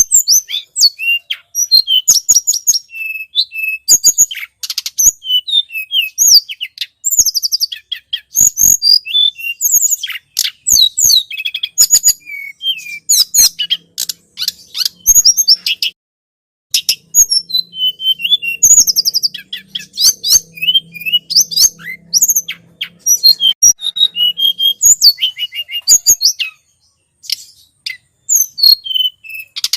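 Tledekan gunung, a small flowerpecker, singing rapid high-pitched chirps and sharp ticking notes in quick bursts, as played for a bird lure. The song breaks off briefly about halfway through and again near the end.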